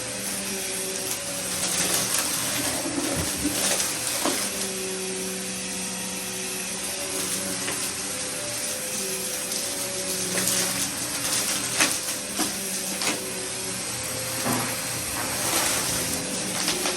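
Vacuum cleaner running steadily during vacuuming, its motor hum wavering slightly in pitch, with scattered short clicks and crackles throughout.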